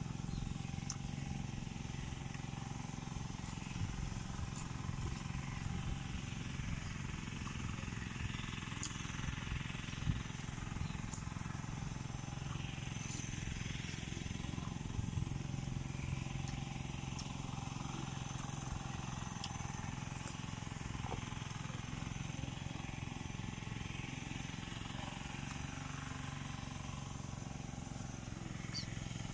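Crunching and chewing of raw jicama slices, with a few sharp crisp clicks, over a steady low rumble.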